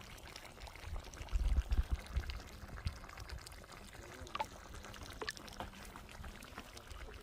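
Liquid being poured, with a few sharp clicks and knocks.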